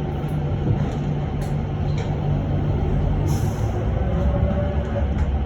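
Cabin noise of an electric bus under way: a steady rumble of road and tyre noise with a low hum, and a few faint rattles. A short high hiss comes a little past halfway.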